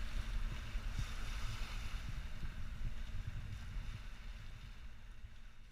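Wind buffeting the microphone over the wash of water aboard a yacht under way, an uneven low rumble with hiss above it that fades away toward the end.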